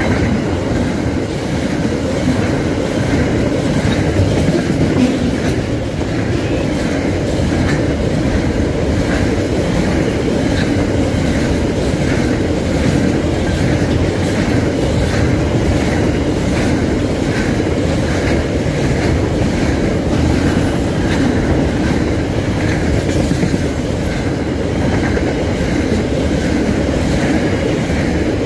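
Container freight train wagons rolling past close by: a steady rolling noise from the wheels on the rails, with regular clicks as the wheels cross rail joints.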